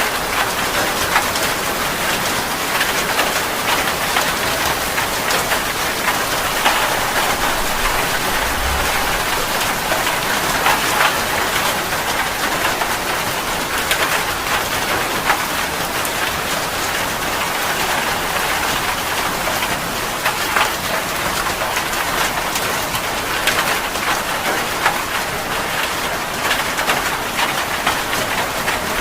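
Steady heavy rain: a continuous hiss dotted with the ticks of individual drops striking a surface.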